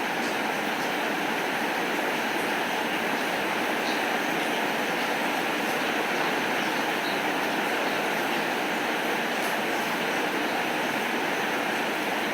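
Heavy rain falling in a steady, even hiss, with faint scattered ticks.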